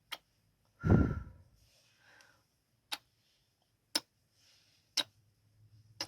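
ASMR kissing sounds close to the microphone: sharp lip smacks, about one a second, with soft breathy mouth sounds between them. About a second in there is one louder, deeper, muffled kiss or thump against the microphone.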